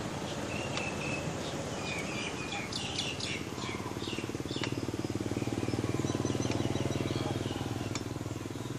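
Birds chirping in short high calls, scattered through the first half over steady outdoor background noise. A steady low drone grows louder in the second half.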